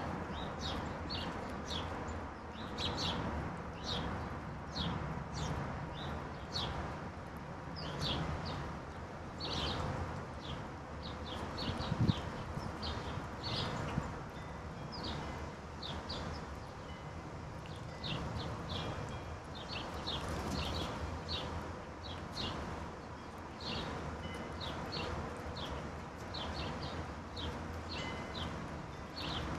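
Wild songbirds chirping: many short, high chirps repeating irregularly over a steady low background rumble. There is a single sharp knock about twelve seconds in.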